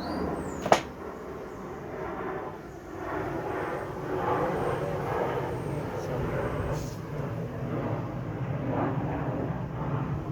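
Small engine running steadily while driving an alternator, with one sharp click about a second in.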